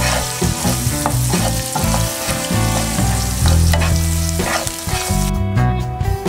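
Minced garlic sizzling in hot oil in a frying pan, stirred with a wooden spatula. The sizzle cuts off suddenly about five seconds in.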